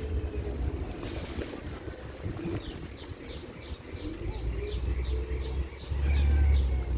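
A small bird singing a fast run of short, falling high notes, about three a second, over wind rumbling on the microphone. The wind gets louder near the end.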